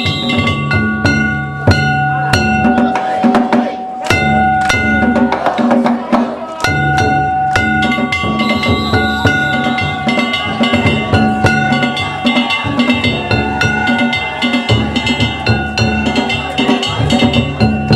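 Danjiri festival music: a taiko drum beaten in a dense, steady rhythm with hand-struck gongs ringing over it.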